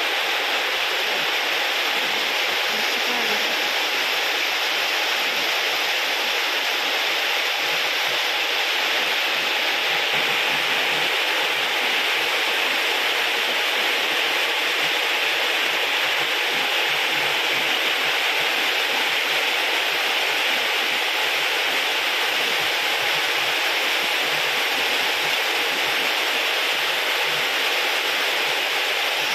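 Heavy tropical rain pouring down, a steady, even downpour.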